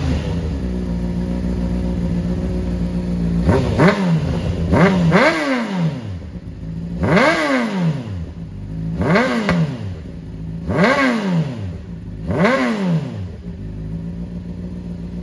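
A 2022 Honda CBR600RR's inline-four, running on a freshly flashed ECU tune with a cat-delete exhaust, idles and is revved six times. Each rev rises sharply and drops straight back to idle, coming every couple of seconds from a few seconds in until near the end.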